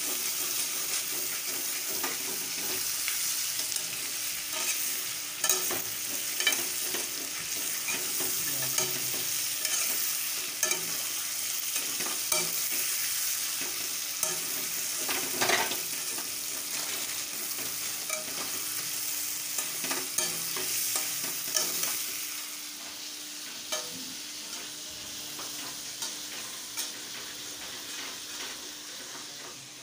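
Chicken pieces sizzling in hot oil in a metal kadhai, with a metal spatula scraping and clinking against the pan as they are stirred. The sizzle grows fainter after about twenty seconds.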